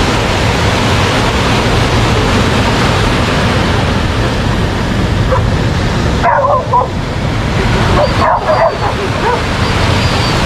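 A dog yipping and barking in two short spells, about six and eight seconds in, over a steady wash of surf and wind on the microphone.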